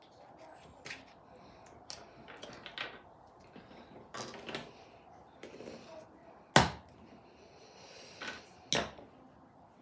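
Kinetic sand being handled: scattered soft crunches and taps at an uneven pace, with a sharp knock about two-thirds of the way through and another near the end.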